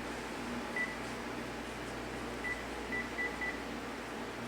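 Cordless phone handset keys beeping as a menu code is entered: one short high beep about a second in, then four quick ones close together around three seconds in, over a faint steady low hum.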